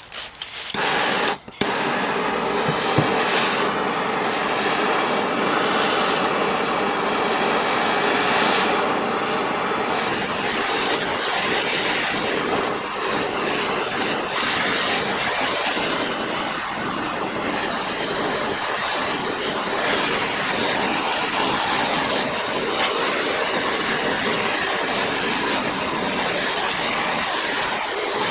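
Blowtorch flame burning with a steady hiss, lit with a click about a second and a half in. It is heating a stuck part on the engine, which the mechanic thinks may be rusted on.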